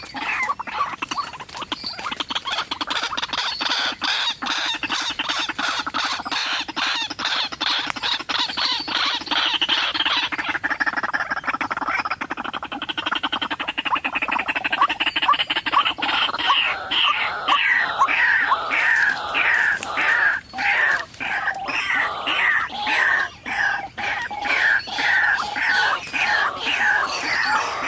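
White-breasted waterhens (ruak-ruak) calling: a dense run of rapid harsh notes that turns, about ten seconds in, into a steady repeated call of falling notes, two to three a second.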